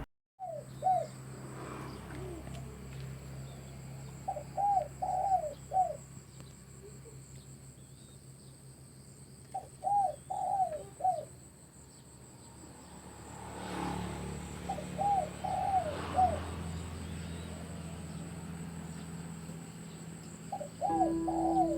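A dove cooing in short phrases of three or four rising-and-falling notes, repeated about every five seconds, over a steady low hum. Music comes in near the end.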